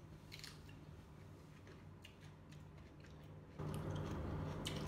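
Faint crunching of raw vegetables being chewed, a few soft crisp clicks, over a low steady background hum that grows louder about three and a half seconds in.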